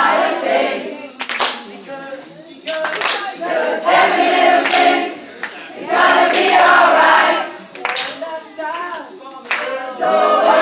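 Concert crowd singing along in unison, largely without instruments, with hand claps keeping time.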